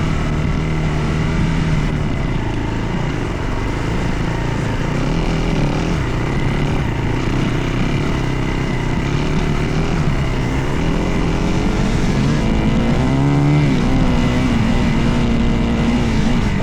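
Dirt bike engine running while riding, its pitch rising and falling with the throttle, with a quick climb in revs about thirteen seconds in.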